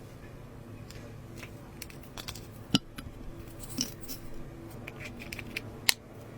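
Close-up sounds of slime being handled and mixed with cosmetics: scattered soft crackles and small clicks, with two sharp clicks, one a little under three seconds in and one near the end, over a low steady hum.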